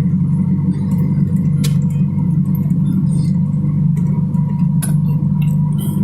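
A steady low engine drone with faint steady whines above it and scattered light clicks and ticks.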